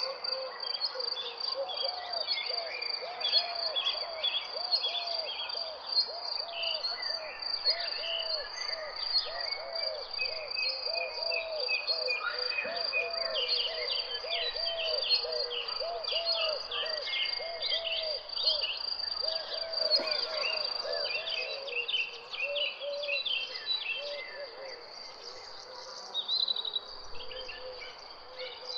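Several birds chirping over a steady high insect trill. Beneath them a low call is repeated rapidly in a long series, then dies away near the end.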